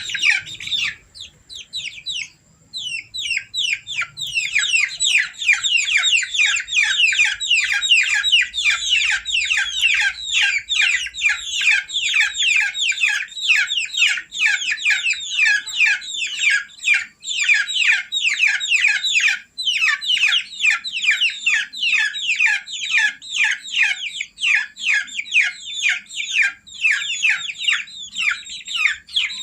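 Domestic chicks peeping: a fast, near-continuous run of short, high, falling peeps, several a second, with a short lull about a second in.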